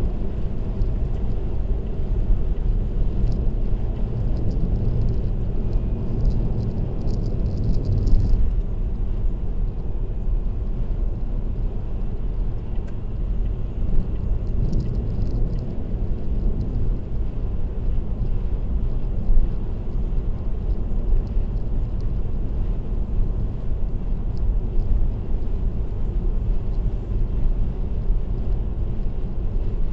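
Steady road noise of a car cruising on an expressway: a continuous low rumble of tyres and engine, with faint light rattles now and then in the first half.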